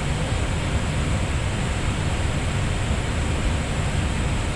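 Steady rushing cabin noise inside the cockpit of an Airbus A320neo in flight on descent, even and unbroken, heaviest in the low range.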